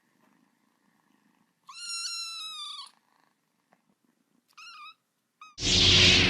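A cat meowing: one long high mew lasting about a second, then two short high mews. About five and a half seconds in, a loud burst of sound cuts in suddenly.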